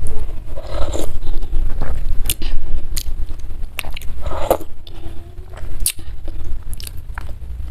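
A person eating bakso meatball soup with noodles, close to the microphone: biting and chewing, with scattered sharp clicks.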